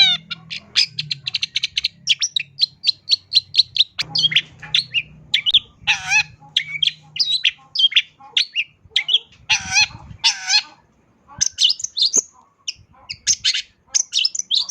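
Long-tailed shrike (cendet) singing a rapid, varied song full of mimicked notes: quick runs of short high chirps and trills, broken by a few longer, harsher calls about six seconds in and again around ten seconds.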